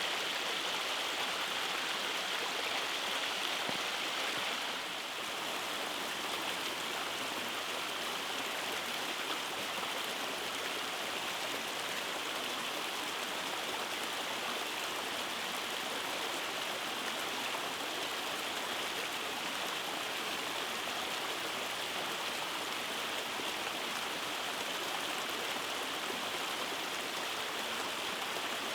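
Rainforest stream rushing steadily over rock cascades and small waterfalls, with a slight dip in level about five seconds in.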